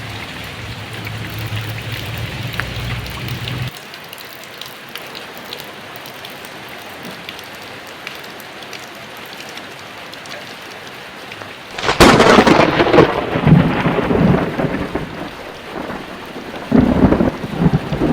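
Heavy rain falling in a steady hiss that drops a little in level just under four seconds in. About twelve seconds in a thunderclap cracks sharply and rumbles on for a few seconds, the loudest sound here, and a second roll of thunder comes near the end.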